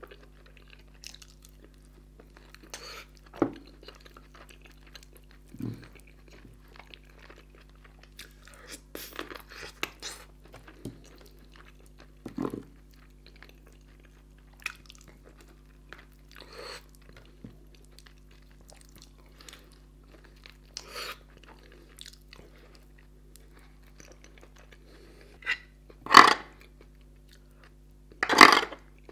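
Close-miked chewing and wet lip smacks of a man eating chicken in thick curry with his fingers, scattered a second or two apart over a low steady hum. Near the end come two louder sharp sounds as a spoon scoops from a metal serving pan.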